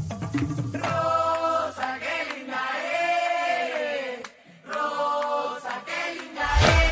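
Voices singing together in a sung melody; a heavy bass beat comes in near the end.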